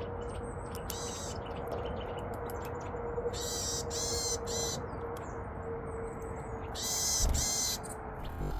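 Wild songbirds giving short, harsh, buzzy calls: one about a second in, a quick run of three in the middle and a louder pair near the end, over a steady outdoor background hiss with a faint steady hum.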